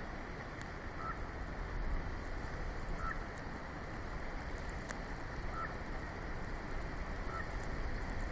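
Steady wind noise on the outdoor nest-cam microphone during a snowstorm, swelling a little at times. Faint short high chirps come through it about every two seconds.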